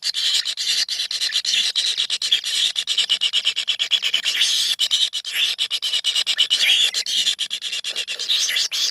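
Kingfisher chicks in a nest hole giving a continuous, rasping, buzzy begging chorus made of rapid ticking pulses.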